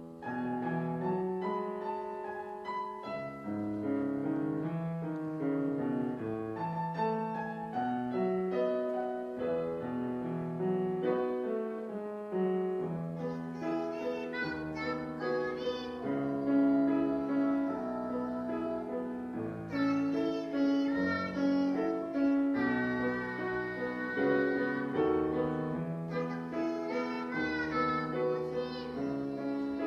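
Piano accompaniment to a children's song starting suddenly; about thirteen seconds in, a young child's singing voice joins it.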